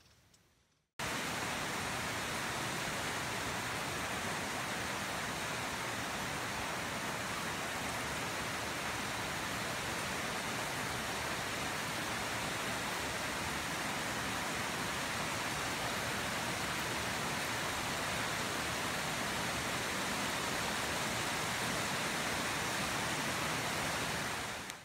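Heavy tropical rain pouring steadily onto broad rainforest leaves, a dense, even hiss that starts abruptly about a second in after a near-silent moment.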